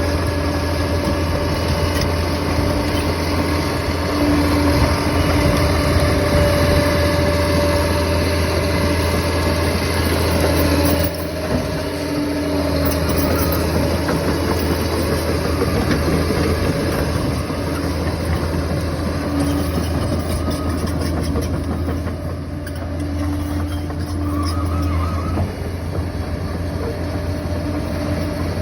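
Diesel engine of a heavy earthmoving machine running steadily, with a low, constant drone. The sound changes abruptly about eleven seconds in.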